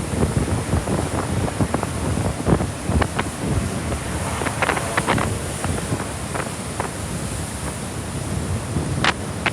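Wind buffeting the microphone over the rush of ocean surf, with a few scattered clicks.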